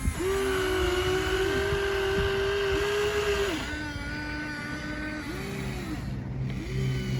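Electric motors of radio-controlled toy construction machines whining. One steady whine is held for about three and a half seconds, then drops a little in pitch, with short whines that rise and fall as motors start and stop.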